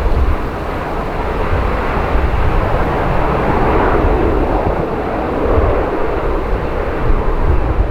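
Jet airliner's engines passing by, swelling to a peak about halfway through and then easing off, with gusts of wind buffeting the microphone underneath.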